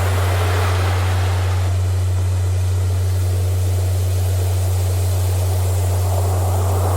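Recorded ocean surf, waves washing in and out, with a steady low electronic tone held underneath. One wave swell fades about a second and a half in and another builds near the end.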